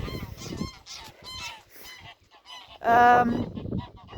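A flock of geese honking, a series of short calls with one loud, drawn-out honk about three seconds in.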